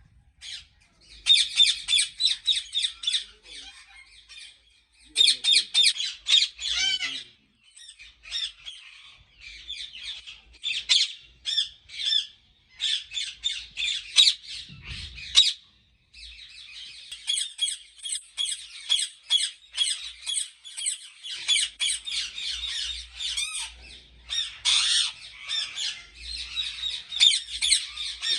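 Many ringneck parakeets squawking together in a breeding aviary: harsh, rapid screeching calls overlapping almost continuously, with short lulls. A single low thump about halfway through.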